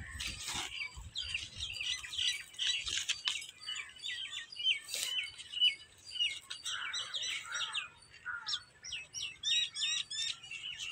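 Small birds chirping: a rapid run of short, high chirps that gets busier toward the end.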